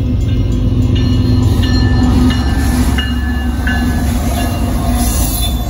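Union Pacific diesel locomotives passing close by at a grade crossing, with a heavy, steady engine rumble. The crossing signal bell dings about every 0.7 s over it.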